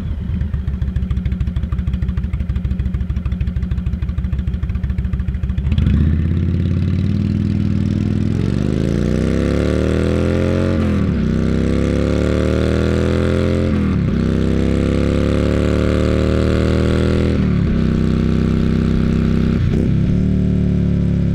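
The all-new Indian Thunder Stroke 111 air-cooled V-twin motorcycle engine running, just after starting. It idles with a steady lumpy pulse for about six seconds, then is revved up and let fall back four times in a row before settling.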